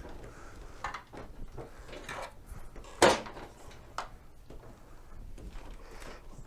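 Irregular clunks and scrapes of hand work on mobility scooter parts, with one sharper knock about three seconds in.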